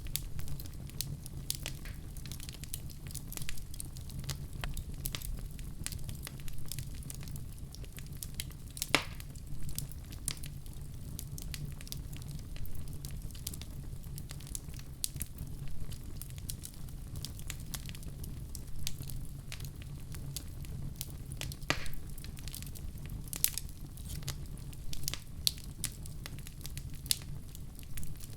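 Wood fire crackling in a fireplace: a steady run of small sharp pops and snaps over a low rumble of flames, with a louder snap about nine seconds in and another a little past twenty seconds.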